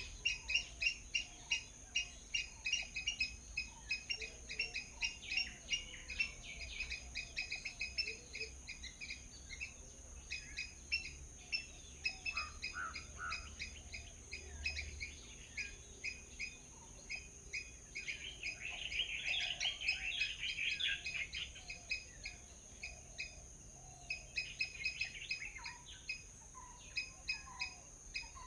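Small birds chirping in a quick, steady stream of short chirps, with a denser flurry about two-thirds of the way through. A steady high-pitched hum runs underneath.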